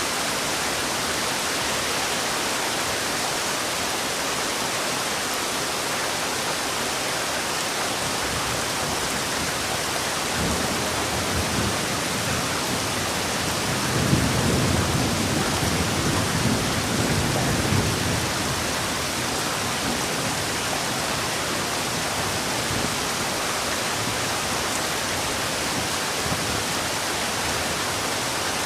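Heavy rain falling steadily. A low rumble of thunder comes in about ten seconds in, is loudest from about fourteen to eighteen seconds, then fades back under the rain.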